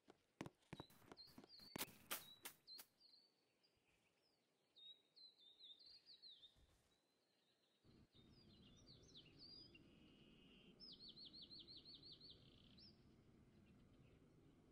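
Faint bird chirping: short high notes with quick downward slides, then a rapid run of repeated notes near the end. A burst of sharp clicks comes in the first few seconds, and a low steady hum sets in about halfway.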